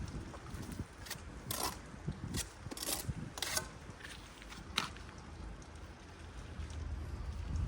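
Hand tools scraping and tapping on brick and mortar: about six short, sharp scrapes spread over the first five seconds, with a low wind rumble on the microphone.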